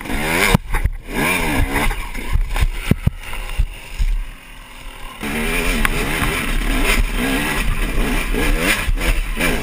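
Dirt bike engines revving hard in quick bursts, the pitch swinging up and down, with a few sharp knocks in the first three seconds. The sound drops off about four seconds in, and the revving picks up again a second later.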